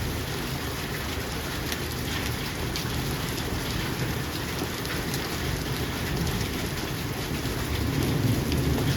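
Steady heavy rain falling, with scattered drops ticking on hard surfaces and a constant low rumble underneath.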